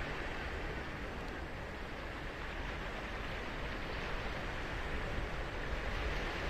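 Ocean surf on a sandy beach: a steady rush of breaking and washing waves that swells a little in the second half.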